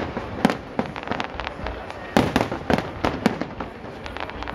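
Aerial firework shells bursting in a rapid string of sharp bangs, several a second. The biggest bangs come about half a second in and in a cluster from about two seconds on.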